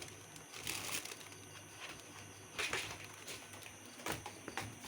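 A few scattered light knocks and rustles, typical of cats scuffling and playing, over quiet room sound.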